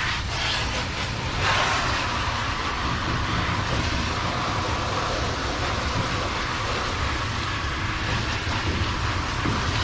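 Steady hiss of water spraying from a dog-wash hose sprayer onto a dog's coat, with a low rumble underneath.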